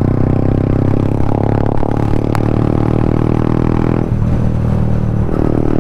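Yamaha MT-15's single-cylinder engine through an Akrapovic exhaust, running at steady revs under throttle. About four seconds in the throttle comes off and the note drops away, then it picks up briefly near the end.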